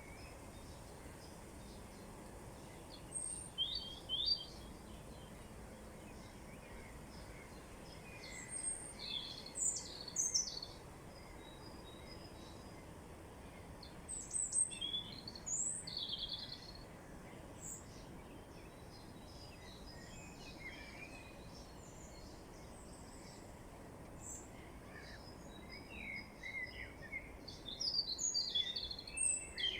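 Songbirds chirping and singing in short clusters of quick high-pitched notes every few seconds, over a steady outdoor background hiss.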